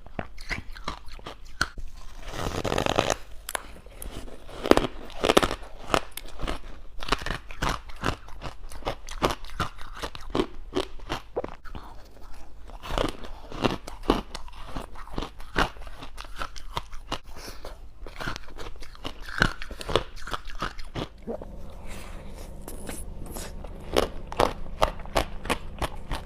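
Close-up crunching and chewing of freezer frost ice soaked in passion fruit syrup: a steady run of crisp, irregular crackles as mouthfuls are bitten and chewed. A steady low hum comes in about two-thirds of the way through.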